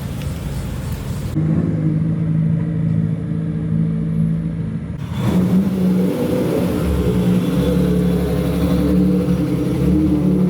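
Modified cars' engines and exhausts running at low, fairly steady revs as the cars drive slowly past. The sound changes abruptly about a second in and again about halfway through, as one car's note gives way to the next.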